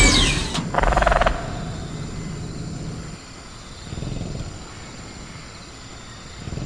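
Sound-effect velociraptor vocalising: the end of a screech gliding down in pitch, a brief rapid rattle about a second in, then a low growl near the middle. Crickets keep up a steady high drone underneath.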